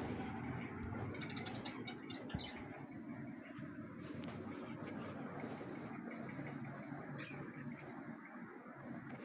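Crickets trilling steadily at a low level, with a few faint clicks about two seconds in.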